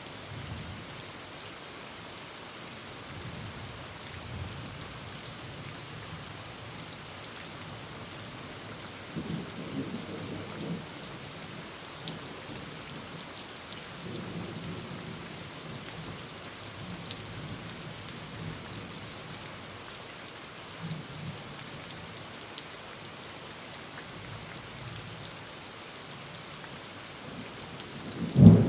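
Heavy rain drumming steadily on a tin roof, with low rolls of thunder about a third of the way in and again around the middle, and a loud thunderclap breaking out right at the end.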